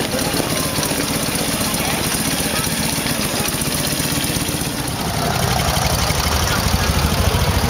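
Engines of vintage motorcycles with sidecars running at low speed as they pass close by, their exhaust pulsing evenly. The engine sound grows louder about five seconds in as a second motorcycle comes near.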